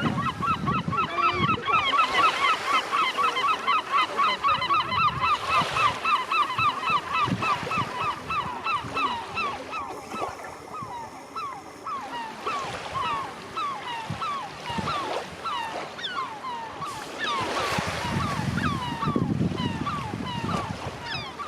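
Gulls calling: a fast run of many repeated calls for the first eight seconds or so, then sparser single calls.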